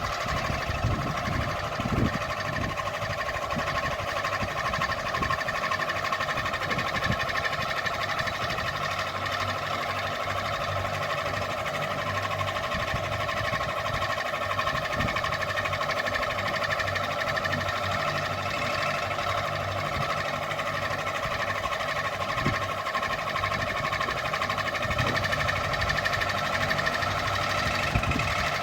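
Electric ceiling fan running at steady speed: its motor gives an even, tonal hum, with a few soft knocks.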